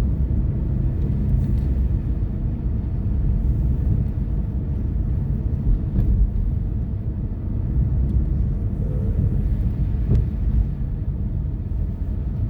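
Car driving on plowed, snowy roads, heard from inside the cabin: a steady low rumble of engine and tyres.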